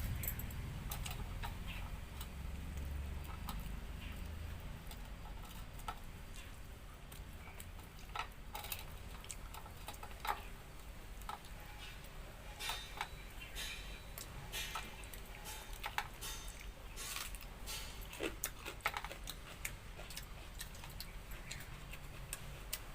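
Eating sounds: irregular small clicks and smacks of chewing and of fingers working through fish curry and watered rice, scattered unevenly over a low background hum.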